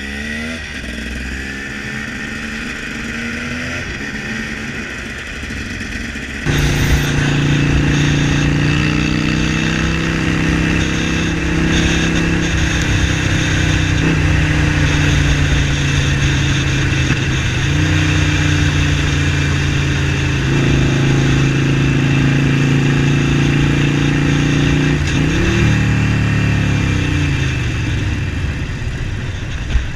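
Motorcycle engine running steadily, its pitch stepping up and down a few times as the revs change. It gets much louder suddenly about six seconds in.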